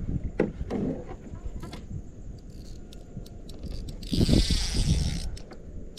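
Fishing reel's drag buzzing for about a second as a hooked fish pulls line out, about four seconds in, amid scattered light clicks and knocks.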